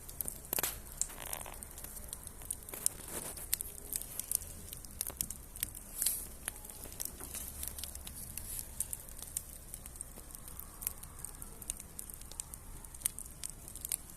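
Campfire wood crackling and popping: irregular sharp snaps over a soft hiss, a few of them louder.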